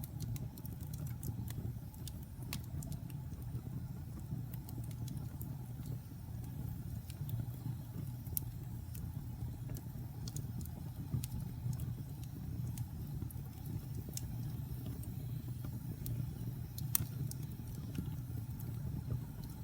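Wood fire burning in a fireplace: a steady low rumble of flame with scattered sharp crackles and pops, one louder pop near the end.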